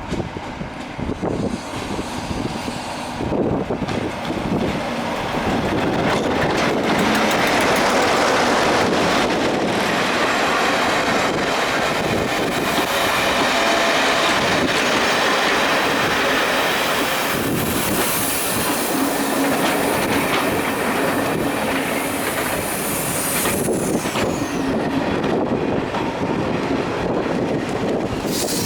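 Class 47 diesel locomotive hauling its coaches over a level crossing: a steady rumble of the train with wheels clicking over the rail joints. A high-pitched wheel squeal comes in during the second half.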